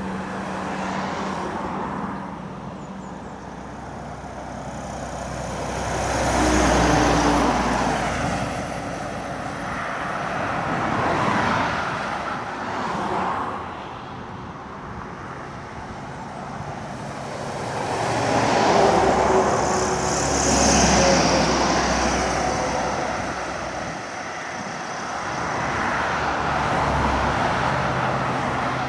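Heavy lorries and other traffic passing one after another on a climbing road, engines working hard up the grade with tyre noise; several passes swell and fade in turn.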